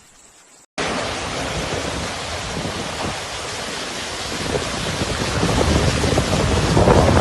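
Heavy hurricane rain coming down hard, a dense steady hiss that cuts in sharply under a second in and grows louder toward the end.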